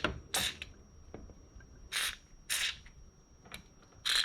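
Short, sharp hissing spurts from an aerosol can of white lithium grease, about four of them a second or so apart, sprayed into a garage door roller's ball bearing.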